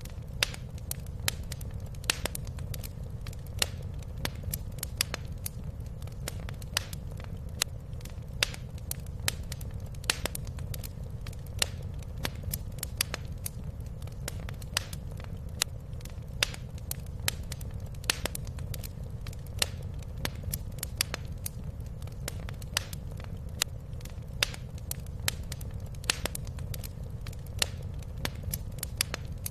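Wood fire crackling in a fireplace: irregular sharp pops and snaps, some loud, over a steady low rumble.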